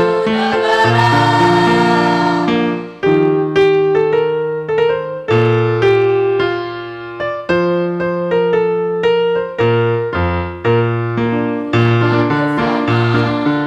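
A choir singing a march with keyboard accompaniment; about three seconds in the voices stop and a piano-toned keyboard plays an instrumental interlude of struck chords and bass notes.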